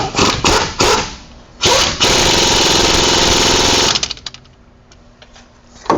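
Impact wrench running in one burst of about two seconds, tightening the bolts of a new wheel hub assembly. A few short knocks come before it.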